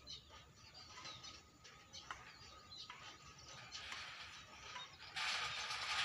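Faint chirps of small birds over a rice paddy, with a few scattered clicks. From about five seconds in, a louder, dense rattling chatter starts.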